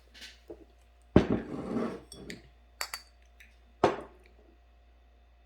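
Dishes and cutlery clattering on a table: a sharp knock about a second in with a clatter after it, a few small clinks, and another sharp knock later.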